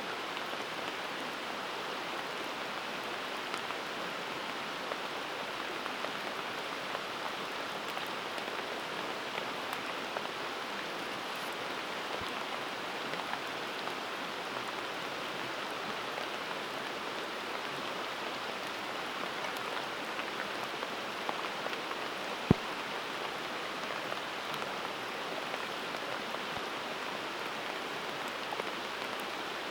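Wood campfire burning with a steady dense crackle and hiss, and one sharp pop about 22 seconds in.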